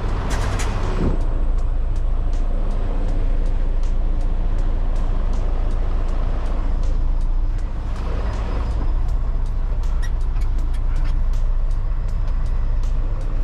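Diesel semi-truck engine running at low speed during slow maneuvering, a steady low rumble with scattered rattles and clicks.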